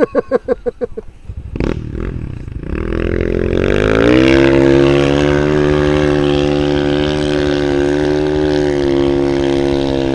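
Motorcycle engine revving up over a second or two, then held at steady high revs for about six seconds before dropping away near the end.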